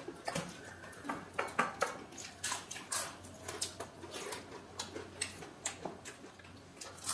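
Close-miked eating sounds of two people eating by hand: chewing and wet lip-smacking on fried chicken-skin pakoras and watery fermented rice (panta bhat), heard as many short, irregular smacks and clicks.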